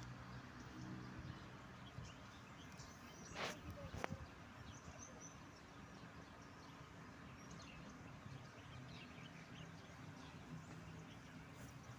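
Faint, scattered chirps of small songbirds over a steady low background hum, with two sharp clicks a little over three seconds in.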